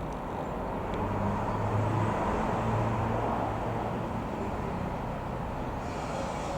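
Ikarus C-42 microlight's Rotax 912 piston engine and propeller droning as the plane passes over, a low hum that swells about a second in and then slowly fades.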